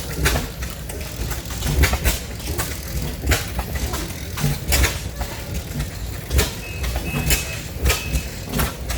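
Several old oil field engines running together, each with its own tune, their exhaust strokes firing unevenly and overlapping.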